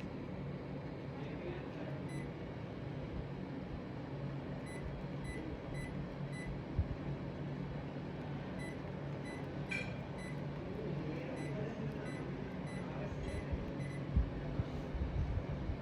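Hitachi split air conditioner running with a steady hum, faint short high ticks recurring over it and a few low thumps.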